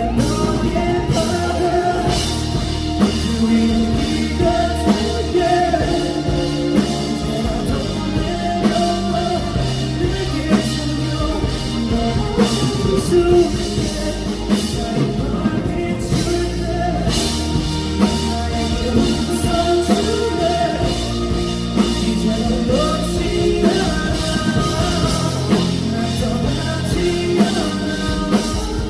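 A band playing a rock song: drum kit, guitar and bass.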